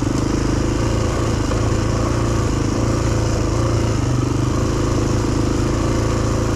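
Motorcycle engine running steadily at an even speed, with a fast, even pulse of firing strokes and no revving.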